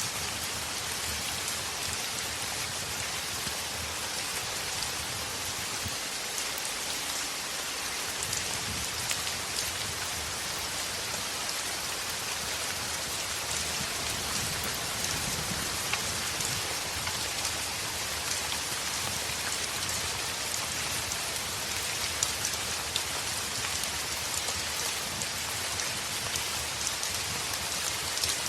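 Heavy rain on a window: a steady hiss with scattered small ticks of drops striking.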